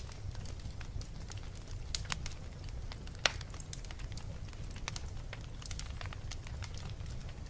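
Wood fire burning in a fireplace, crackling with scattered sharp pops over a steady low rumble; the loudest pop comes a little past three seconds in.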